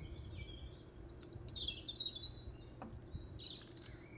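Small birds chirping, with a string of quick, high-pitched calls and short whistled phrases that are loudest around the middle.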